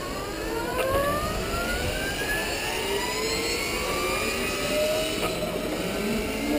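Electric race motorcycles accelerating away, several overlapping motor whines each rising steadily in pitch as the bikes pick up speed.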